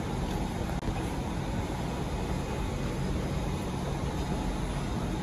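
Steady low hum and rushing noise of an SMRT Kawasaki C151 train standing at an underground platform with its doors open, its onboard equipment running, over the station's ambient noise.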